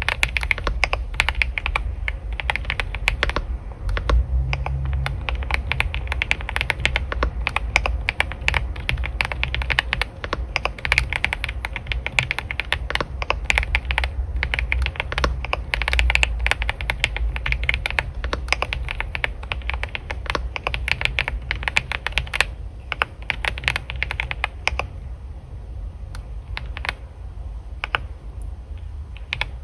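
Continuous fast typing on a computer keyboard: a dense, irregular stream of key clicks, with a brief pause about three-quarters of the way through and softer, sparser keystrokes near the end.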